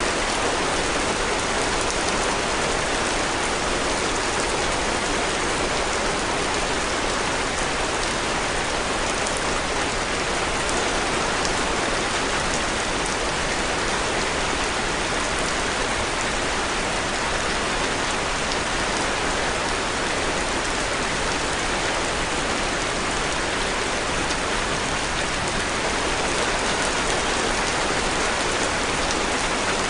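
Steady rain falling as an even hiss, with no thunder or distinct single drops standing out.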